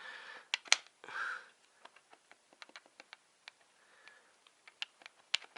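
Scattered light clicks and taps from a worn Pierburg vacuum pump being handled, its drive shaft rocked back and forth by hand. The shaft has excessive play: it moves back and forth and almost round in a circle, which the owner thinks is plainly wrong.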